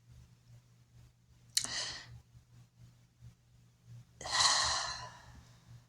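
A woman breathes out twice: a short breath about one and a half seconds in, then a longer, louder sigh about four seconds in. A faint low hum runs underneath.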